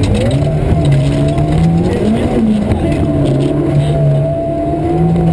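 Engine of a 1600 cc turbocharged four-wheel-drive rally car heard from inside the cockpit at speed, its note rising and falling in steps as the driver works the throttle and gears.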